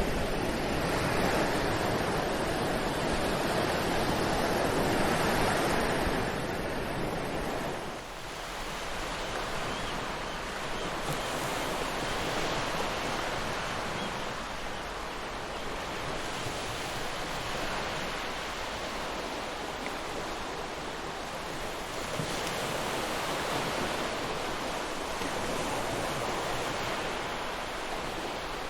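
Ocean surf washing on a beach, a continuous rushing noise of breaking waves. About eight seconds in it drops a little in level and turns thinner and hissier.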